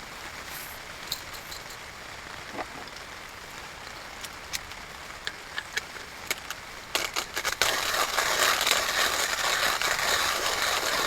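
A campfire crackling, with scattered sharp pops. About 7 s in it turns louder and denser, a busy hiss full of pops.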